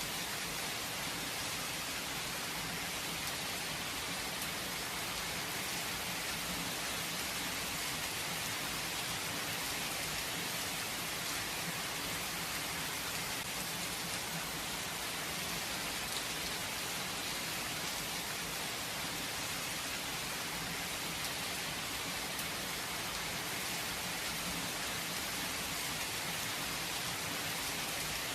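Steady rain falling and pattering on surfaces, with no thunder; an even hiss that does not change.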